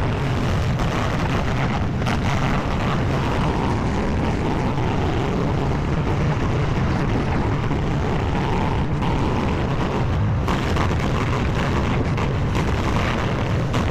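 Skid steer loader's engine running steadily at working speed while the grapple loads broken concrete.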